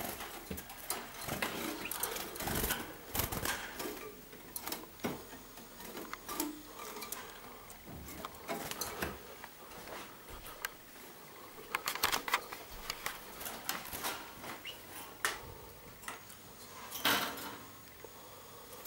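Canaries moving about: irregular clicks, taps and rustling, with denser clusters near the start, about two-thirds of the way through and near the end.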